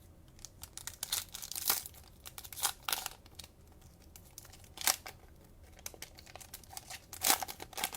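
Cellophane wrapper of a trading card pack being torn open and crinkled, in irregular bursts, the loudest near the end.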